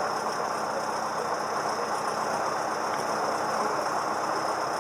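Cessna 172M's four-cylinder Lycoming engine and propeller running steadily, heard inside the cabin as an even drone with hiss.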